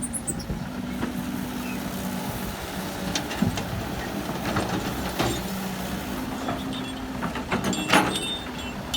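Heavy diesel machinery engine running steadily, with scattered knocks and clanks, the loudest about eight seconds in.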